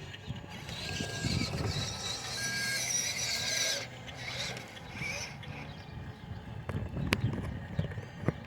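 Radio-controlled model truck's electric motor and gears whining at high pitch for about three seconds, then again briefly, followed by a few sharp clicks.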